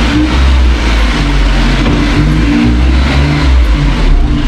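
Daihatsu Esse's small three-cylinder engine running as the car drives slowly forward, its pitch stepping up and down with the throttle.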